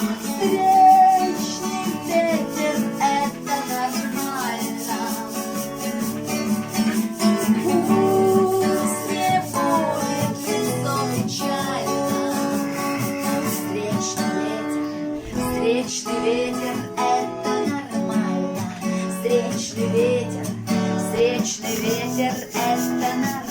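Acoustic guitar playing the instrumental close of a song, picked and strummed at a steady level.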